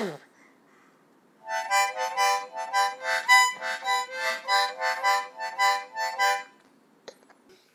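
Harmonica played in a run of short chords, about three a second, starting about a second and a half in and lasting some five seconds.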